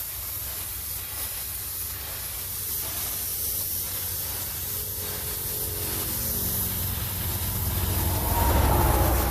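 Freightliner semi truck's diesel engine running under a steady hiss, then getting louder and revving up near the end.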